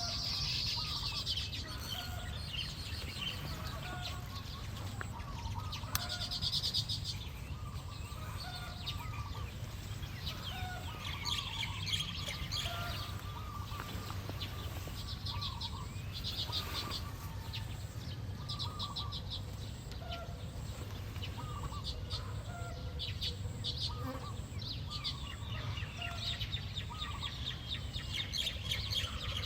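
Small songbirds chirping and trilling, with short high chirps and rapid buzzy trill bursts over lower calls and a steady low rumble.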